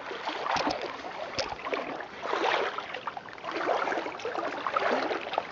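Legs wading through thigh-deep swamp creek water, a sloshing swish that swells with each stride.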